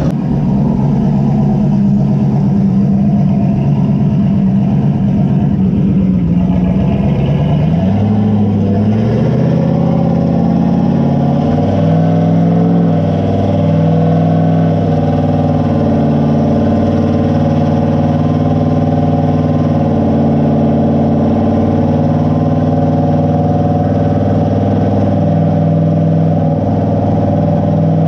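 Turbocharged engine of an S10 pickup running on a chassis dyno. Its note rises about eight seconds in, then holds at steady speeds with small dips.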